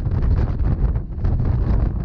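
Narrow-gauge Rhaetian Railway passenger train running, a steady low rumble with wind buffeting the microphone in uneven gusts.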